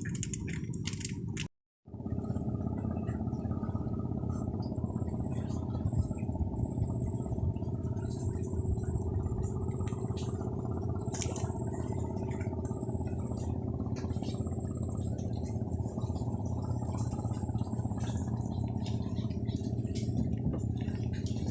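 A motor's steady low drone, with a few light clicks over it. It cuts out completely for a moment about a second and a half in.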